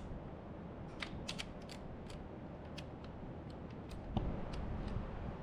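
A series of small sharp clicks, about a dozen in the first four seconds, from a 2004 Mustang's ignition key, lock cylinder and switch being turned through their positions on the removed steering column. A dull knock about four seconds in, followed by a low rumble.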